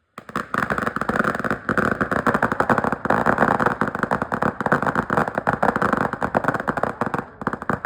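Firecrackers going off in a rapid, dense string of sharp bangs, starting suddenly a quarter second in and continuing without a break.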